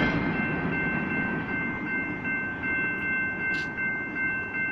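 Rumble of a double-stack intermodal freight train fading as its last cars pull away, with a grade-crossing warning bell ringing steadily over it.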